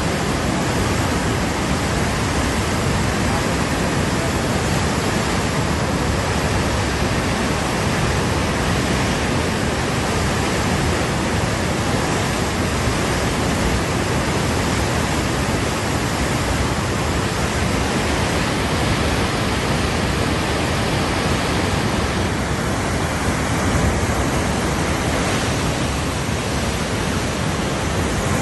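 The Teesta River in flood: a steady, loud rush of fast-flowing floodwater.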